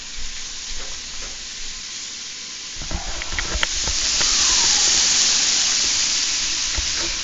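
Deer steak and onions sizzling in a cast-iron skillet on a propane camp stove, with a few clicks of a metal spatula against the pan. The sizzle grows louder about halfway through.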